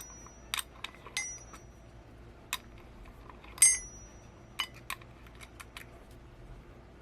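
Irregular metallic clinks and taps as an Allen wrench and steel monitor-mount parts are handled and knocked together. A few strikes ring briefly, and the loudest comes about three and a half seconds in.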